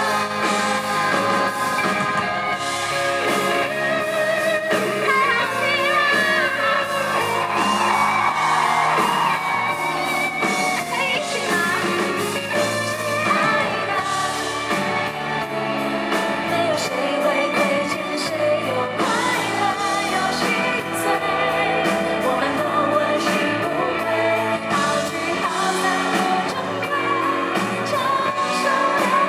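Live band performance of a pop-rock song with a woman singing the lead vocal over the band.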